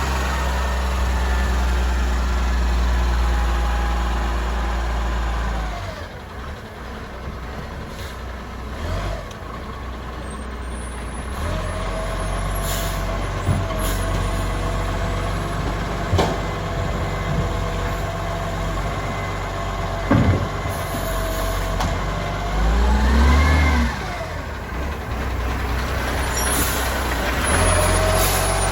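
Euro 5 garbage truck at work on a collection. Its diesel engine runs heavily, then drops back about six seconds in. A steady whine and several sharp knocks follow, with a brief rise and fall in engine pitch near the end.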